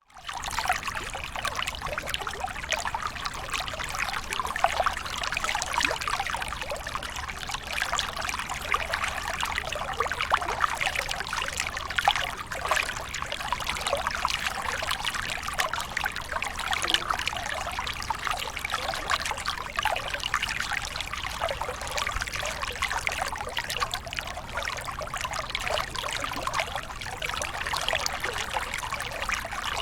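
Small waterfall: water pouring and trickling steadily, full of small splashes.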